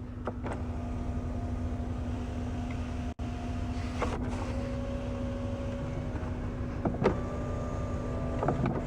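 Electric sunshades of a 2012 BMW Alpina B7 moving on their small motors, worked from the door switch. One shade's motor hums for about three and a half seconds and stops with a click, then a second starts at a slightly lower pitch and runs to near the end, with a few more switch clicks.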